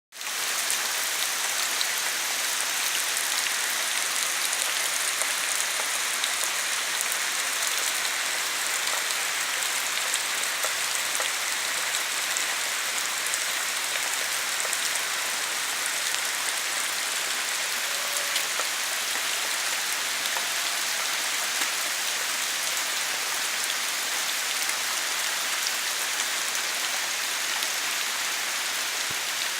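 Heavy rain falling steadily, a dense hiss of drops hitting surfaces.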